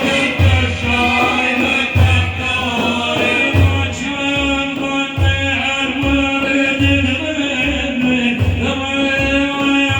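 Male voice singing Islamic devotional praise song (madih) in a chanting melody, over low drum beats that come about once a second.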